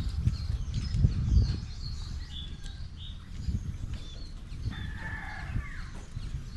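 Small birds chirping in short, repeated high notes. About five seconds in, a rooster crows in the background for about a second. A low rumble runs underneath.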